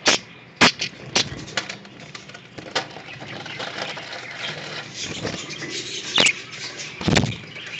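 English budgerigars chattering with a steady stream of small chirps, with one louder chirp about six seconds in. Several sharp clicks and knocks break in, the heaviest near the end.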